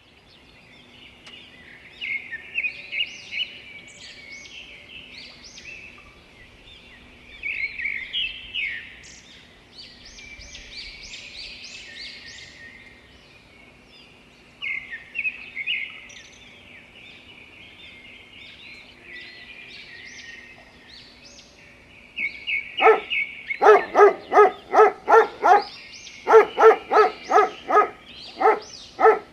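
Songbirds chirping and singing in short phrases. Near the end a louder bird breaks in with rapid, evenly repeated calls in two runs of several notes each.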